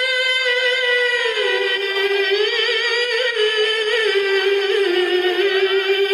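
Quran recitation (tilawah) by a male qari in a high, full voice. He holds one long phrase with wavering ornamental turns, its pitch stepping gradually lower.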